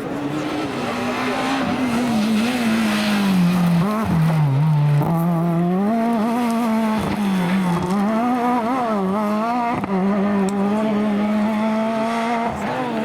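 Rally car engine running hard, its pitch wavering up and down with the throttle, with brief dips several times.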